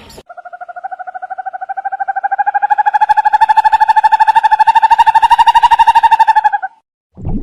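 An animal call: one long trill of rapid, even pulses at a steady pitch, growing louder over several seconds and then stopping abruptly.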